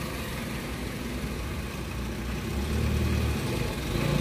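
Toyota Wigo's 1KR three-cylinder engine idling, growing louder after about two and a half seconds. The engine is misfiring: the scan later shows misfire codes for cylinders 1 and 3 and ignition coil faults.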